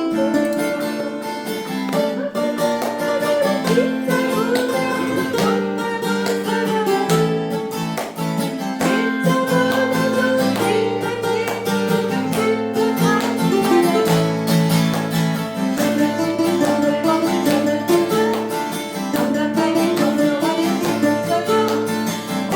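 Acoustic guitar and ukulele strumming a song together, in steady continuous playing.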